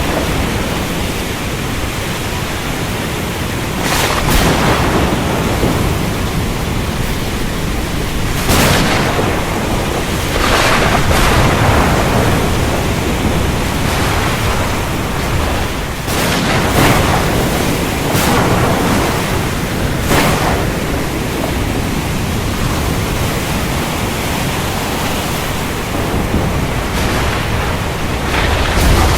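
Heavy rain falling in a steady rush, with bursts of thunder every few seconds.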